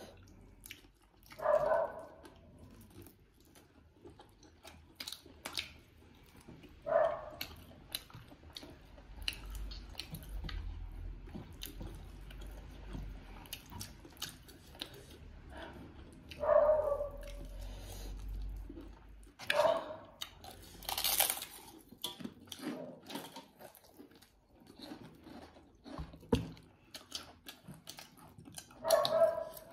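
Close-up chewing and lip-smacking of people eating chicken curry and rice with their hands, with many small wet mouth clicks and a few louder bites or smacks.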